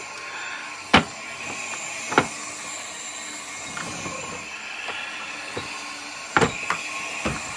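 Hand-reassembly of a Hoover upright vacuum: scattered sharp clicks and knocks of plastic parts being handled and fitted together, about five in all, three of them close together near the end, over a steady background hiss.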